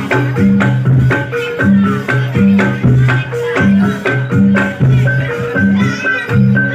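Live Javanese reog and jaranan ensemble music: low pitched drum and gong strokes alternating between two pitches in a steady, fast repeating beat, with a high metallic note struck over it.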